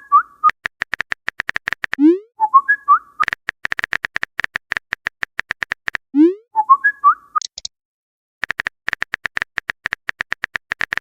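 A fast run of even clicks, like a typing sound effect, pausing briefly about two-thirds of the way in. Over it, a short whistled phrase (a rising slide, then a few quick up-and-down notes) repeats about every four seconds.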